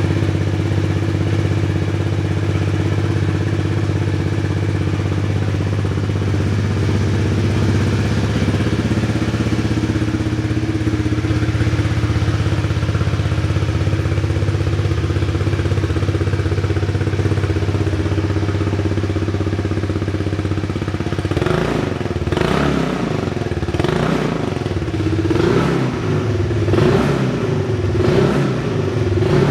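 Honda Dio 110 (JF31) scooter's single-cylinder four-stroke engine idling steadily through an aftermarket custom muffler. About 21 seconds in, the throttle is blipped again and again, about once a second, the engine revving up and falling back each time.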